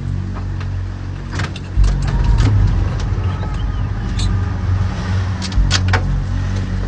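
An engine running steadily with a low hum, with several sharp knocks and clatters over it.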